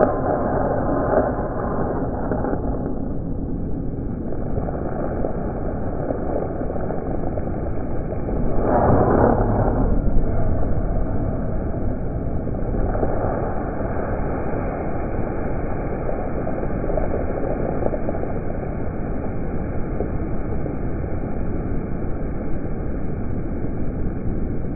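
Small belt conveyors running with a steady mechanical noise, swelling for a moment about nine seconds in.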